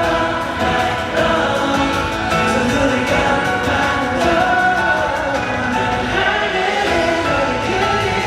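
Live K-pop concert music over the arena sound system, with several voices singing together.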